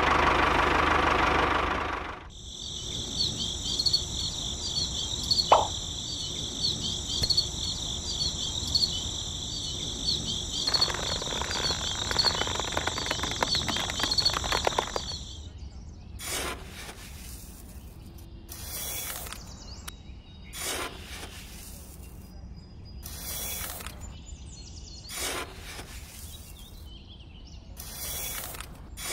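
A loud noisy sound for about the first two seconds, then steady high-pitched insect chirping, like crickets, until about halfway through. After that come short, scattered rustling and scraping handling noises, ending with wheat grain poured into a small plastic hopper.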